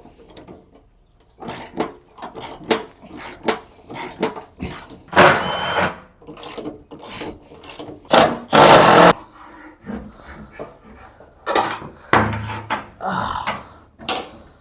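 Hand tools working at a car's fender fasteners: scattered metal knocks, clatters and scraping, with two louder scraping noises of about a second each in the middle.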